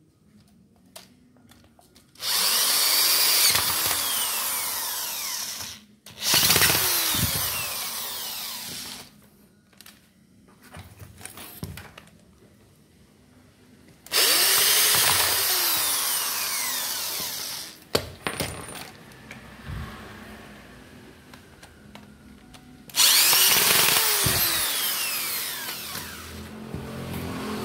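Handheld electric power tool run in four bursts of a few seconds each. In each burst the motor speeds up and then winds down, with quieter gaps in between.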